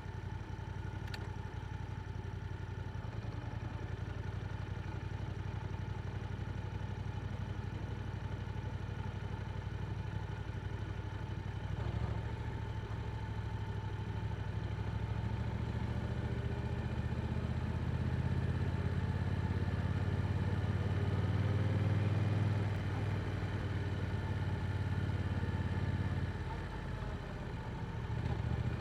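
Yamaha R7 sport bike's engine through an Akrapovic exhaust, running steadily under way. It grows louder through the middle, eases off briefly near the end, then picks up again.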